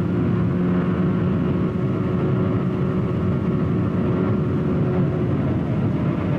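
Motorcycle engine running at a steady speed while riding, over a steady rush of wind and road noise.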